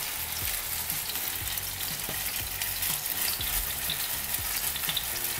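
Spoonfuls of chicken-and-zucchini patty batter frying in hot oil in a nonstick pan, a steady crackling sizzle.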